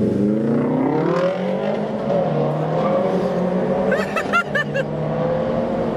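Car engine accelerating hard as the car pulls away. Its pitch rises for about a second and a half, drops at a gear change, and then runs on more steadily at speed.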